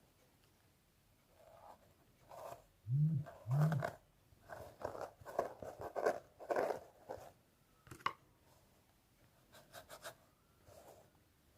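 Fingernails scratching through hair on a scalp close to the microphone, in clusters of short rasping strokes, with two louder low thumps about three seconds in. The strokes thin out and fade near the end.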